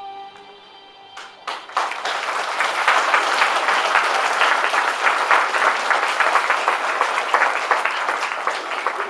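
A song's last held notes end about a second in, then an audience claps and applauds loudly, tailing off near the end.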